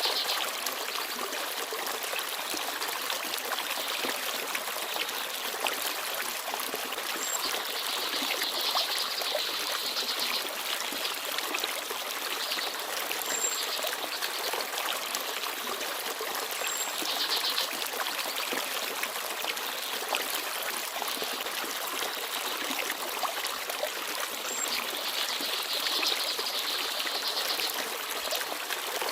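Forest stream babbling steadily, swelling a little now and then. A few brief, very high chirps from small birds stand out over the water.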